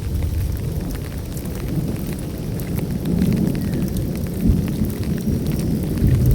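Heavy rain falling, with scattered sharp drop ticks over a continuous low rumble. The rumble swells about three seconds in and again near the end.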